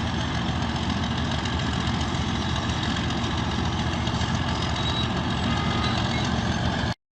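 Bulldozer's heavy diesel engine running steadily, cutting off suddenly near the end.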